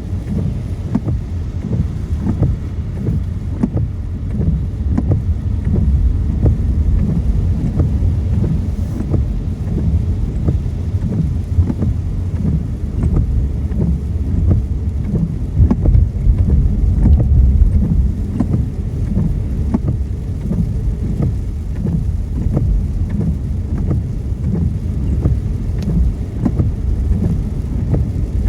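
Steady low rumble of a car driving on a wet road, heard from inside the cabin, with many small raindrops tapping on the windscreen throughout.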